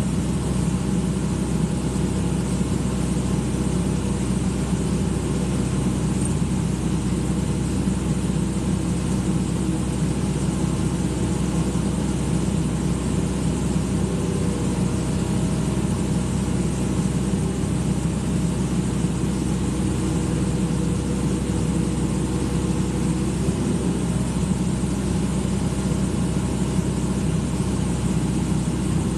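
Excavator engine running steadily at a constant pitch.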